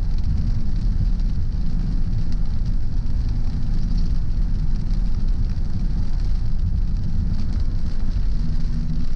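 Car driving on a wet road: a steady low rumble of road and engine noise with a hiss of tyres on the wet surface.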